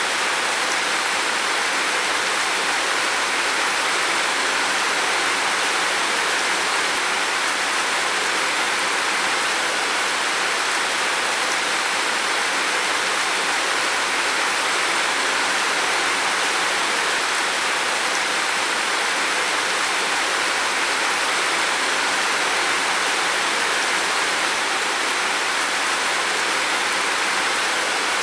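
Heavy rain falling steadily on a roof, an even, unbroken hiss of countless drops.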